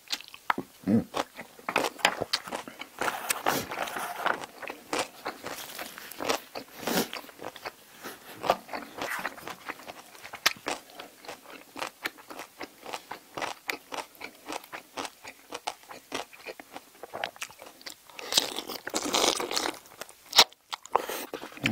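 Close-up eating sounds of a person chewing braised spicy seafood with bean sprouts: rhythmic crunchy chewing with wet mouth clicks throughout, louder for a couple of seconds near the end as a fresh bite goes in.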